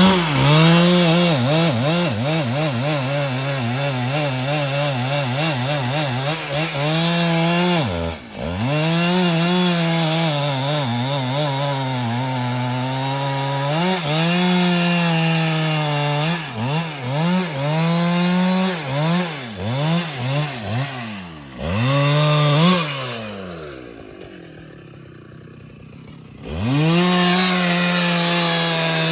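Husqvarna 395XP two-stroke chainsaw cutting through a tree trunk at full throttle, its pitch sagging and recovering as the chain loads in the wood. The revs drop sharply about eight seconds in, rise and fall in a run of quick throttle blips in the second half, and settle to a quiet idle for about three seconds before the saw is throttled back up near the end.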